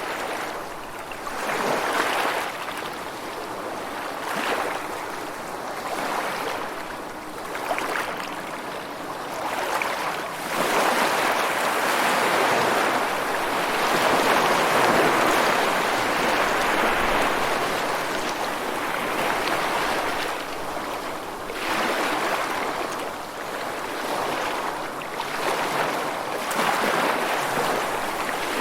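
Rushing water: a steady wash of noise that swells and ebbs every few seconds and is loudest about halfway through.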